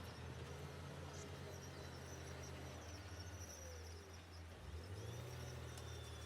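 Diesel engine of heavy earthmoving equipment running with a low, steady hum; its pitch drops about three seconds in and picks up again near five seconds.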